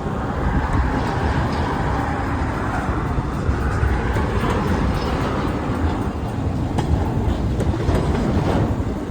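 A freight train rolling along the track, a steady rumble with a few sharp clicks in the second half.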